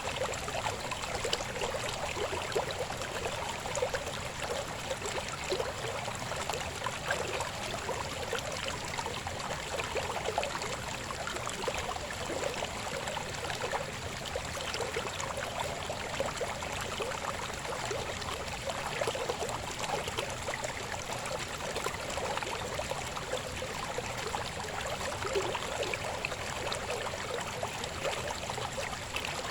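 Shallow river babbling steadily over stones, a continuous gurgling rush of water.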